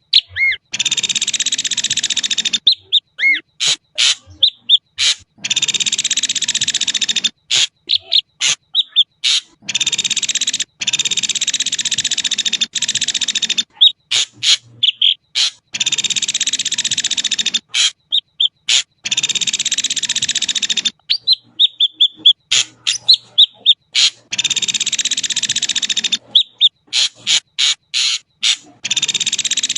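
Ashy drongo calling: long harsh rasping notes of about two seconds each, repeated every few seconds, alternating with short whistled notes and sharp clicks.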